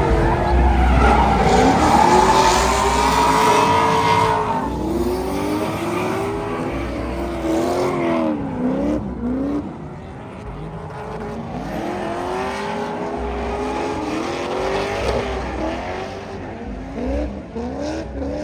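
Drift car engines revving hard, the pitch rising and falling over and over as the cars slide, with tyre squeal; loudest in the first few seconds.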